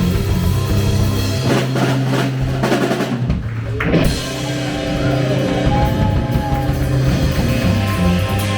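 Live rock band with drum kit, bass and electric guitar playing an instrumental passage with no vocals. The bass drops out about a second and a half in, and the full band comes back in about four seconds in.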